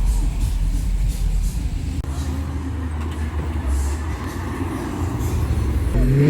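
Car engines running, a steady low rumble, with one engine note rising just before the end.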